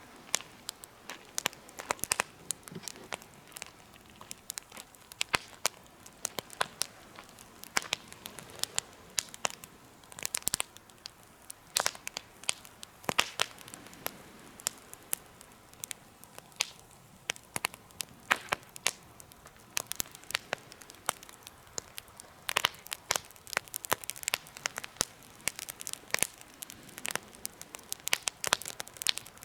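Wood campfire burning, crackling with irregular sharp pops, several a second, over a faint steady hiss.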